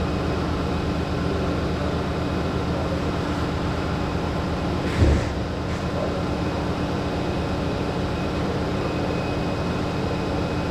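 Steady machine hum with a constant tone, with a single knock about halfway through.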